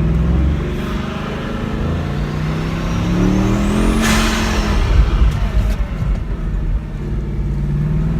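Bugatti Chiron's quad-turbocharged W16 engine accelerating. Its note rises with a climbing high whistle, breaks into a rush about four seconds in, then settles to a steadier, lower engine note.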